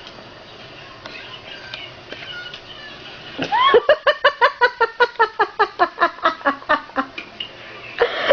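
An animal giving a fast run of short, pitched calls, about six a second, starting about three and a half seconds in, pausing briefly near the end and starting again.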